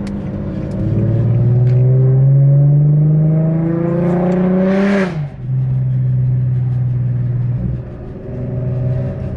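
Car engine accelerating through a gear, its pitch rising for about four seconds. About five seconds in comes a short hiss, the pitch drops sharply at a gear change, and the engine then runs steadily at lower revs.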